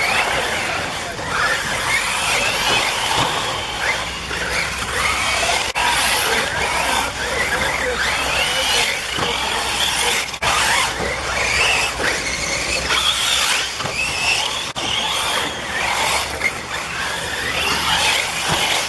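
Several 1/8-scale off-road RC buggies racing together, their motors whining up and down in pitch as they accelerate and brake, with tires scrabbling on the dirt.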